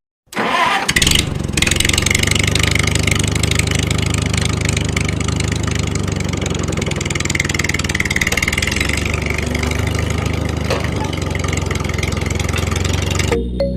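Small motor running steadily with a fast, even rattle. It starts just after a brief silence with a short noisy rush about a second in, and cuts off suddenly near the end.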